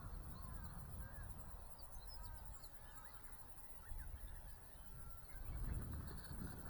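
Wind buffeting the microphone in gusts, with birds chirping in short calls throughout.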